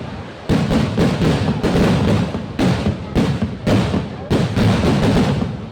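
Festival fireworks going off in a rapid, continuous string of loud bangs, about three a second, each followed by a low booming echo.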